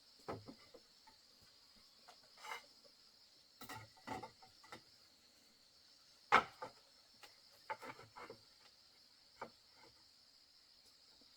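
Scattered short knocks and taps, irregularly spaced, the sharpest a little past halfway, over a steady high-pitched drone of insects.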